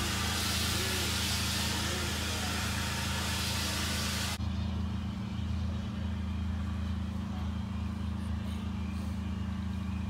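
Rolling noise and wind rush from a heritage train carriage running along the track, with a steady low hum underneath. About four seconds in it cuts sharply to a quieter steady low hum, with the rush gone.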